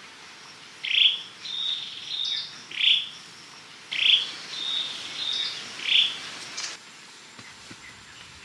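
A bird calling in two repeated phrases, each a sharp downward-slurred whistle, a few shorter level notes and another downward-slurred whistle. A faint, steady high hiss runs underneath and stops abruptly about two-thirds of the way through.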